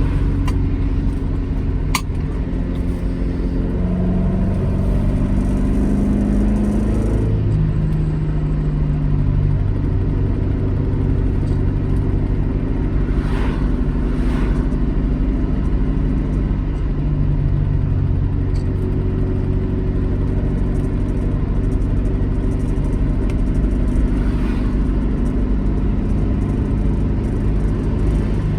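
Alfa Romeo GT Junior's twin-cam four-cylinder engine running on the road. Its pitch climbs for a few seconds, drops sharply about seven seconds in, then holds steady at cruising revs.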